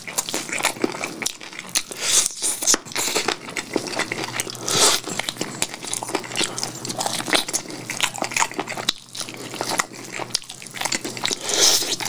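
Close-miked biting and chewing of a fried chicken drumstick coated in sticky spicy sauce, with a dense, irregular run of wet clicks and crackles from the mouth.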